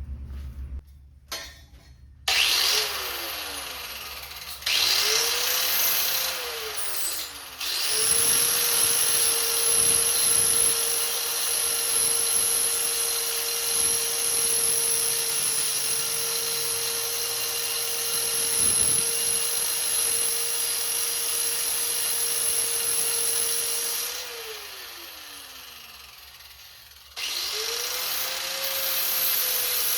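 Handheld electric grinder, most likely an angle grinder, working on steel exhaust tubing: a steady high whine over a harsh grinding hiss. It spins up and down a few times in short runs, then holds one long run that winds down near the end, and it starts up again just before the end.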